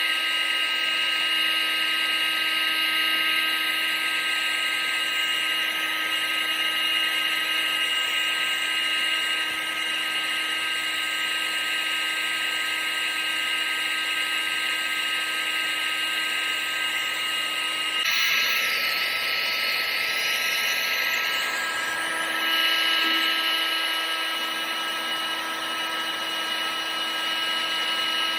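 Electric motor of a household appliance running steadily, a high-pitched whine over rushing air. About two-thirds of the way through, the tone wavers and shifts briefly, then settles again.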